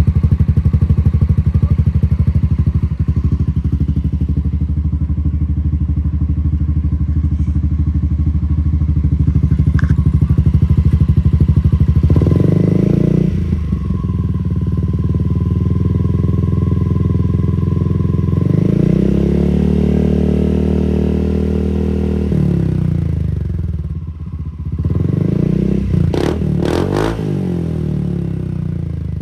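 Honda Forza 350 scooter's single-cylinder engine running through an aftermarket Akrapovic exhaust: a steady idle for the first twelve seconds or so, then blipped and revved up and back down several times, one longer rev past the middle. Near the end come a few sharp crackles.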